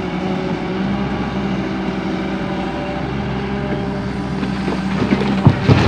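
Volvo EW130 wheeled excavator's diesel engine running steadily, with a few sharp knocks near the end.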